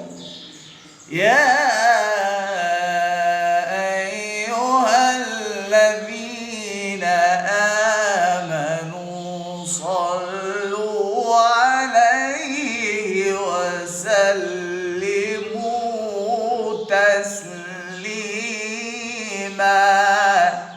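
A man reciting the Quran in melodic tajweed style. He draws out long ornamented vowels that rise and fall in pitch, after a short breath pause about a second in.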